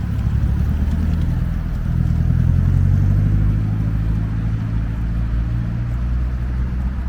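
Car engines pulling away at low revs: a steady low engine note that swells about two to three seconds in, then eases off.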